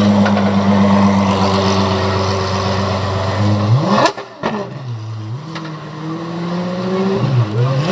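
High-performance car engine held at a steady high note, then revving sharply upward about four seconds in before the sound drops away. A lower engine note follows, falling and climbing again, with another sharp rise in revs at the end.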